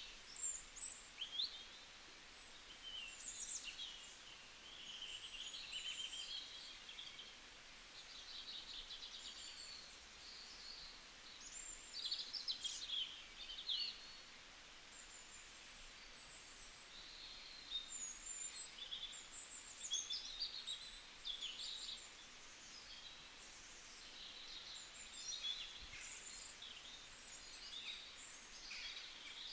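Several small birds chirping and trilling in a bamboo forest, short high calls overlapping one another over a faint steady hiss.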